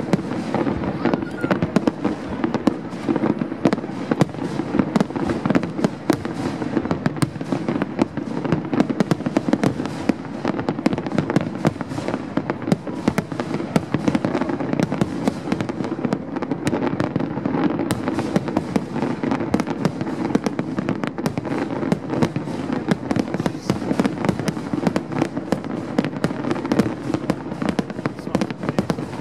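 Aerial fireworks going off in rapid, continuous succession: a dense stream of bangs and crackles with no break.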